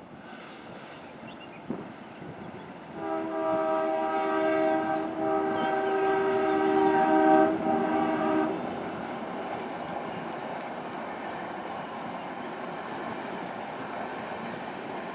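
WDP-3A diesel locomotive's horn sounding a long multi-tone blast about three seconds in, with a brief break midway, cutting off after about five and a half seconds. The steady rumble of the moving train runs beneath and continues after the horn stops.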